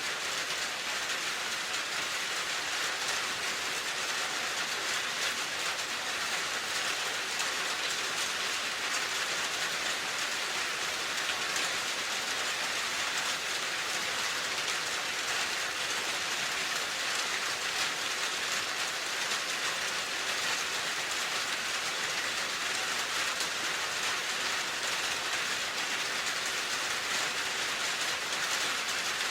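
Steady, even rain falling on a surface, a continuous hiss of many fine drops.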